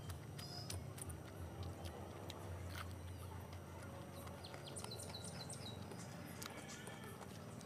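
Close-up eating sounds: chewing and wet lip smacks as a mouthful of rice and curry eaten by hand is chewed, with birds chirping in the background, a quick run of chirps about five seconds in.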